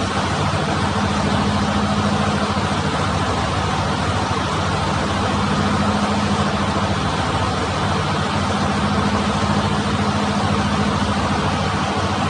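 A fishing boat's engine running steadily, a constant low hum over a continuous rushing noise.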